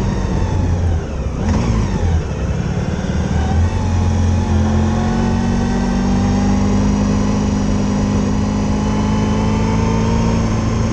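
Motorcycle engine running while riding on the road, with wind and road noise. The engine note shifts in pitch in the first couple of seconds, then holds steady.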